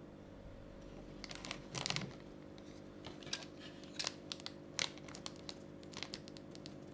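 Paper or cardboard being crinkled and torn in short, irregular crackles and rustles, starting about a second in, over a steady low hum.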